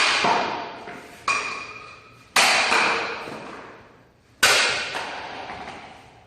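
Four sharp struck hits, each ringing on and fading away over a second or two.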